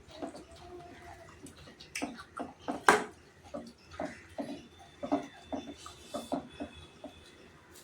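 Close-up eating sounds: wet chewing and lip smacks from someone eating chicken curry, in quick irregular clicks, with one sharp louder click about three seconds in.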